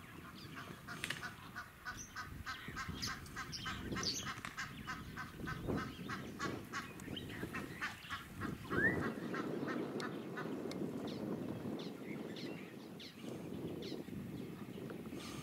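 Birds calling in a fast run of short repeated calls, several a second, for about the first half, then a single rising whistle a little past the middle.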